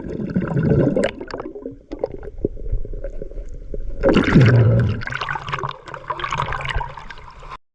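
River water gurgling and sloshing close to the microphone while people swim, in uneven swells that are loudest about four seconds in.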